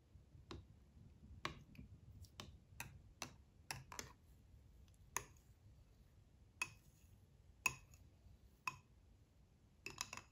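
About a dozen light clicks and taps, irregularly spaced, ending in a quick cluster of several.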